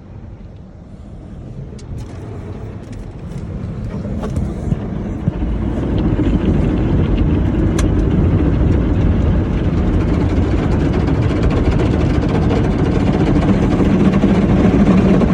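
Automatic car wash machinery working over the car, heard from inside the car: a steady noise that builds from faint to loud over the first six seconds and then holds.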